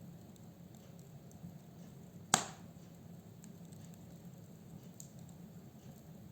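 Wood fire in a fireplace crackling faintly over a low, steady rumble of flame, with one loud, sharp pop of a burning log a little over two seconds in.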